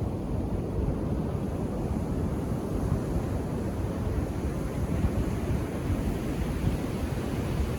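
Ocean surf on a beach: a steady, low rumble of calm waves washing in, without distinct breaks.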